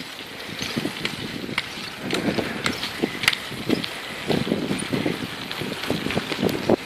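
Bicycle being ridden over a rough path, rattling with irregular clicks and knocks and uneven low thuds.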